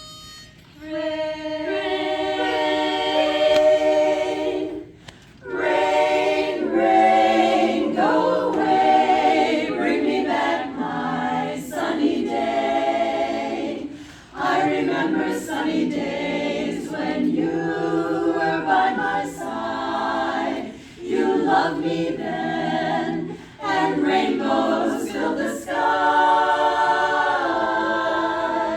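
An a cappella vocal group singing in several-part harmony without instruments, in phrases of a few seconds with short breaks between them.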